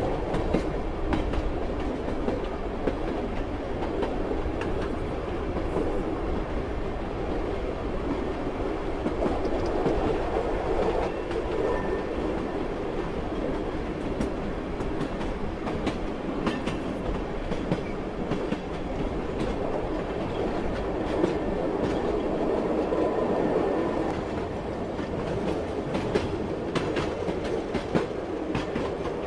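Passenger train running along the track: a steady rumble of the wagons with the clickety-clack of the wheels over the rail joints.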